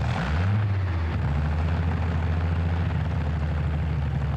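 Tractor engine running loud and steady at a low, deep pitch, with a brief rise in pitch about half a second in before it settles again.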